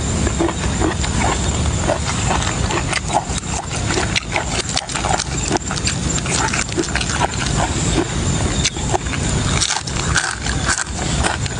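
Close-miked chewing and smacking of food: a person eating by hand, with quick irregular wet mouth clicks over a steady low rumble.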